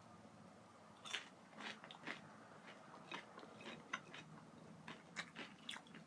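Faint mouth sounds of someone chewing a bite of plant-based lemon and herb chicken piece: a run of small clicks and wet smacks, starting about a second in.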